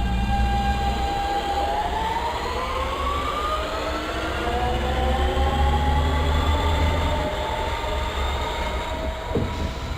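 ML90 metro train accelerating: the whine of its electric traction motors rises steadily in pitch from about two seconds in, over the low rumble of the running gear. A short knock comes near the end.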